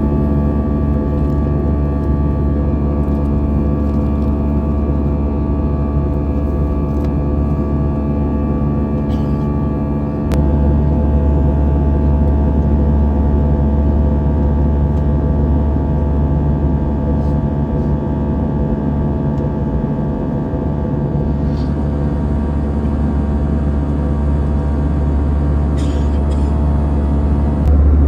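Steady cabin drone inside an Airbus A320-214: engine and airflow noise with a low rumble and several steady tones. About ten seconds in, a click, and the low rumble steps up slightly.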